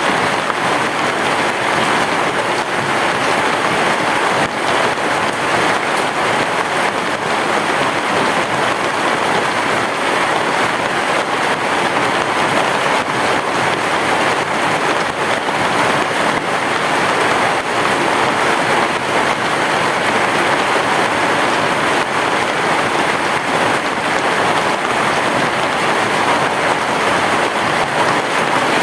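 Heavy rain falling steadily, a dense, even hiss of countless drops with no thunder.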